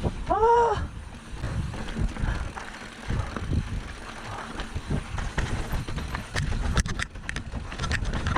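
Bicycle being ridden: a steady low rumble with wind on the microphone, a short rising-and-falling pitched sound about half a second in, and a series of sharp clicks and rattles near the end.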